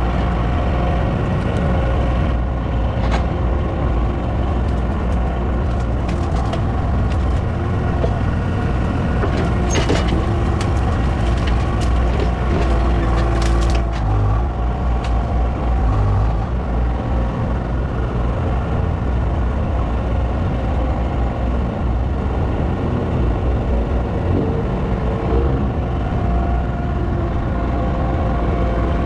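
A large engine running steadily at a constant speed, with a deep rumble and a few faint ticks in the first half.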